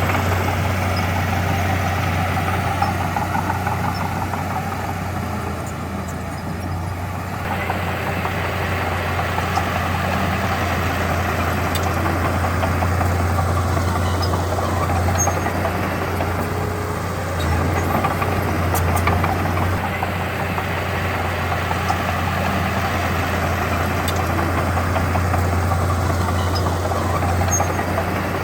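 Heavy diesel engine of earthmoving equipment running steadily with a constant low hum. Its note drops back for a few seconds, picks up sharply about a quarter of the way in, and swells twice more later.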